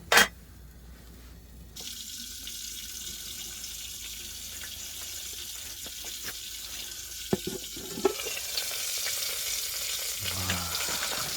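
A wood fire catching in a camping wood stove: a sharp click, then a hiss that sets in about two seconds in and grows louder, with a few sharp cracks of burning firewood.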